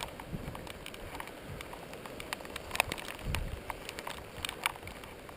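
Rain falling, with raindrops ticking irregularly on nearby surfaces, over low gusts of wind.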